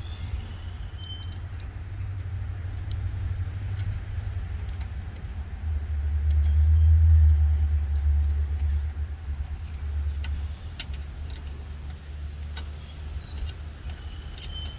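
Scattered small metallic clicks and clinks of hand tools on car battery terminals, over a low rumble that swells around the middle and then fades.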